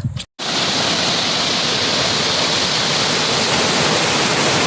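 Steady, loud rushing of water, an even hiss with no distinct drops or rhythm, starting abruptly about half a second in after a brief silent gap.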